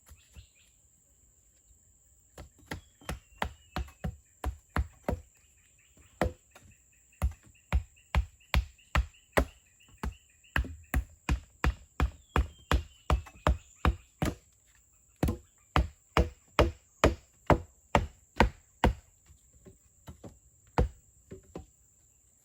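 Wood being chopped with a blade: sharp, even blows about two a second, in runs with short pauses. A steady high insect drone and a warbling call sound behind it.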